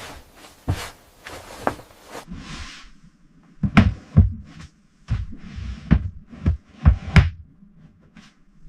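A series of irregular knocks and thuds, about a dozen, coming faster in the second half, with a brief hiss a little after two seconds in.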